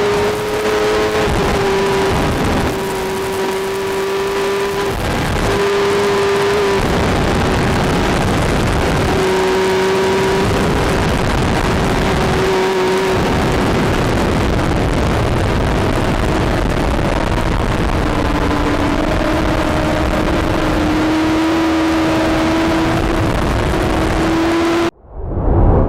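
Superbike engine running at speed: a steady high engine note that holds its pitch, breaks off and comes back several times over heavy rushing noise. Near the end it drops out, surges briefly and cuts off.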